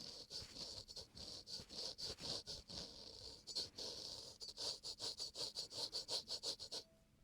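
Razor scraping across damp facial skin in quick short strokes, a crisp repeated scrape that comes faster in the second half and stops near the end.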